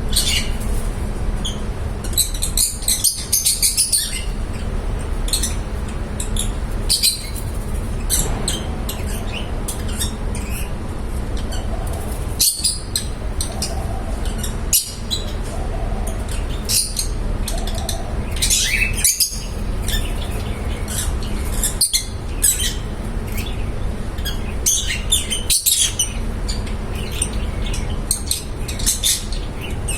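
Pet lovebirds chirping: many short, high chirps in quick clusters, over a steady low hum.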